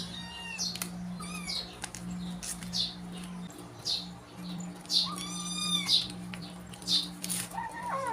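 Cat meowing three times, the first call falling in pitch; short high chirps repeat through it over a steady low hum.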